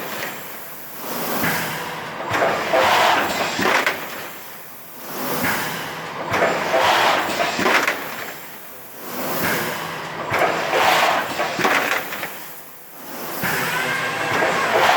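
Thermoforming machine running through its forming cycles: a noisy surge of air hiss and mechanical clatter with clicks, rising and falling about every four seconds.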